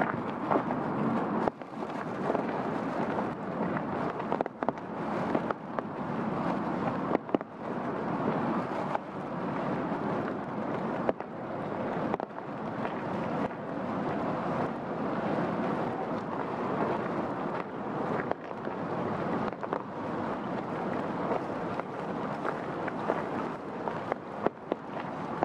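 Steady rain falling: a dense, even hiss with scattered short, sharp taps of single drops.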